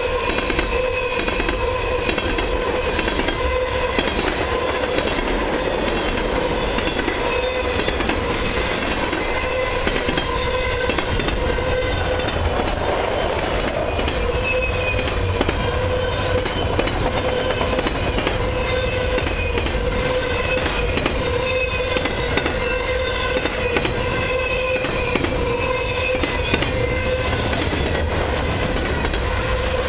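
Freight cars of a long CN autorack and mixed freight train rolling past at about 45 mph, wheels clacking over the rails, with a steady ringing tone throughout.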